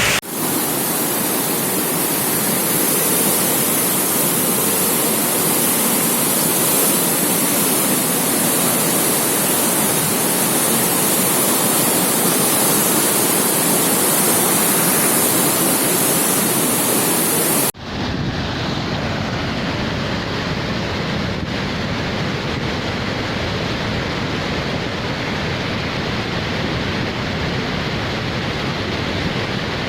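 Athirappilly waterfall in full flood after heavy rain: a loud, steady rush of falling water. About 18 seconds in it cuts abruptly to a deeper, heavier rumble with less hiss.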